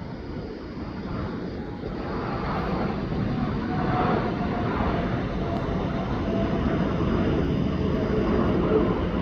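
Jet airliner's engines roaring as it passes, growing louder over the first few seconds and then holding, with a faint whine that slowly falls in pitch.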